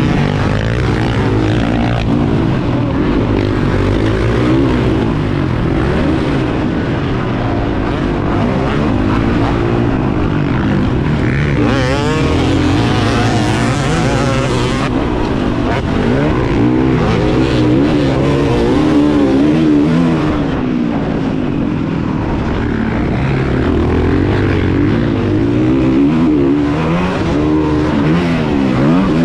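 Motocross bike engines revving up and down continuously as they are ridden around the track, the pitch rising and falling with the throttle. A hissing noise joins in for a few seconds about twelve seconds in.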